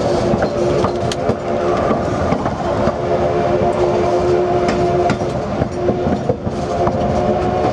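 Steam train's passenger cars rolling along the track, a steady rumble with sustained high tones over it and a few sharp clicks.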